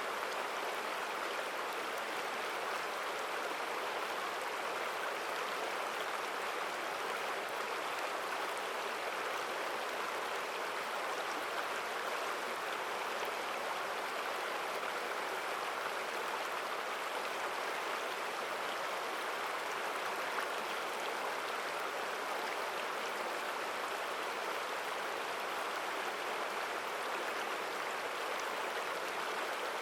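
Mountain stream running over rocks: a steady, strong rush of flowing water.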